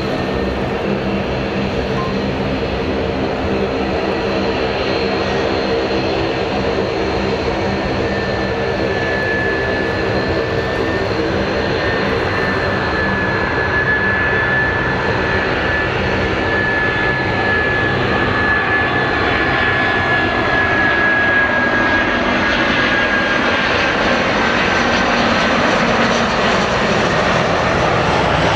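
Aircraft engines running: a steady hum under a high whine that slowly falls in pitch, the whole sound gradually getting louder.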